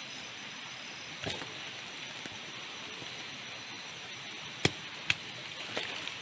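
Steady hiss of heavy rain, cut by four sharp knocks, the two loudest close together a little past the middle.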